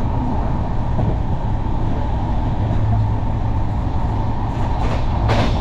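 Steady low rumble of a moving passenger train heard from inside the coach, with a short, sharp burst of noise near the end.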